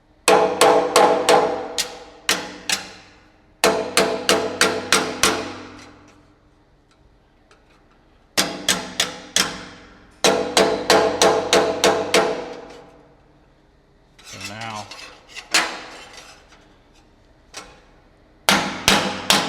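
Hammer blows on an aluminum patch piece held against the table, in quick bursts of several strikes at a few a second with a metallic ring after each, separated by short pauses. The hammering flattens out a crest in the middle of the patch so it sits flush.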